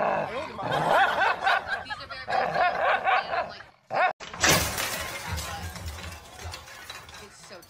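Small dog snarling and growling in quick rising-and-falling stretches at its reflection in a mirror for about four seconds. After a short gap comes a sudden noisy crash-like sound that fades away.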